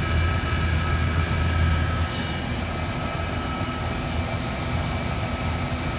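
Trane XE1000 heat pump outdoor unit running steadily in cooling, its compressor and condenser fan giving a constant hum with several steady tones. The low hum drops a little about two seconds in.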